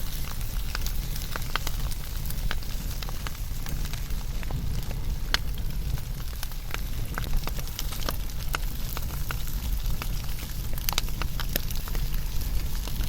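Wood fire burning, with a steady low rumble and scattered sharp crackles and pops, several coming close together near the end.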